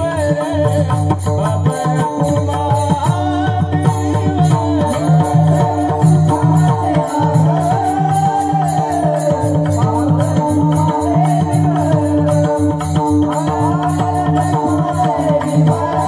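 Marathi kirtan music: a voice sings a winding devotional melody over a steady held drone, with a quick, even rhythm of percussion strokes.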